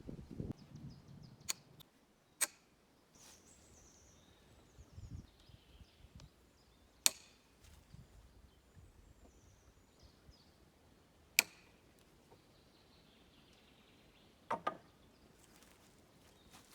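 Sharp single knocks of a tool striking wood, about five, spaced irregularly a few seconds apart, the two in the middle loudest.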